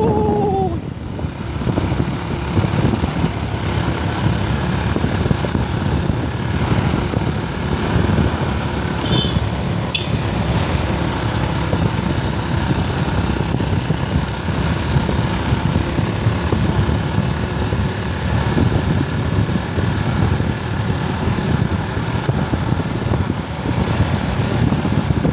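Motorcycle riding uphill: its engine runs under load beneath a steady low rumble of road and wind noise.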